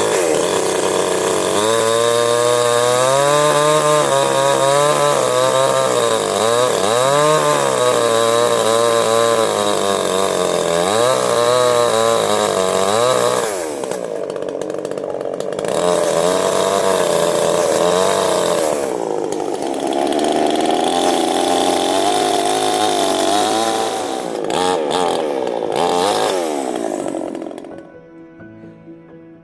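Chainsaw running, its engine pitch rising and falling as it is revved, easing off twice briefly and cutting off near the end. Soft background music underneath.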